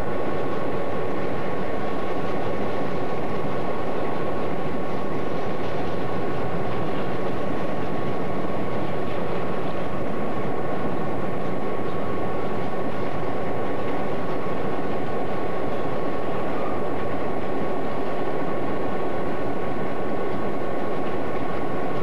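Freight cars of a passing train rolling steadily over the rails, a continuous rumble with a thin steady high whine running through it.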